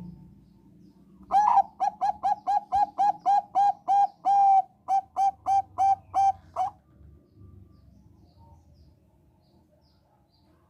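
Zebra dove of the Thai 'Bangkok' strain (perkutut bangkok) singing. Its song is a quick, even string of about twenty short staccato coos at a steady pitch, roughly four a second, lasting about five seconds, with one longer note in the middle.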